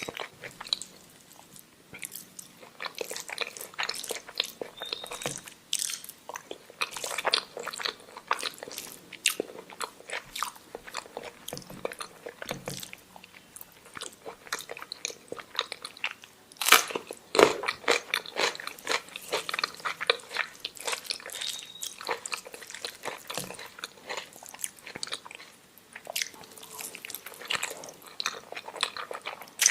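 Close-miked chewing and mouth sounds of a person eating omelette with rice: irregular wet smacks and clicks, loudest in a cluster about two-thirds of the way through.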